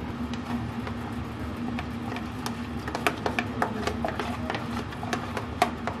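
A utensil scrapes and taps against a plastic container and a steel saucepan as soup is poured and scraped into the pot, giving scattered light clicks and clinks over a steady low hum.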